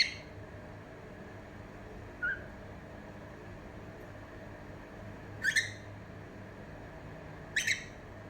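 Cockatiel giving short whistled calls: one right at the start, a faint brief one about two seconds in, then two louder double-note calls near the end, over a steady low room hum.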